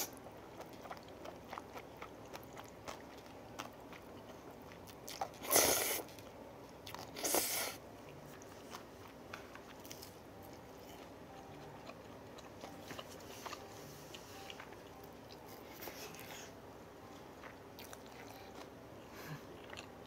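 Close-miked eating: a mouthful of spicy cold buckwheat noodles being chewed, then crunchy bites of thin-battered fried pork cutlet. The two loudest moments come about five and a half and seven seconds in.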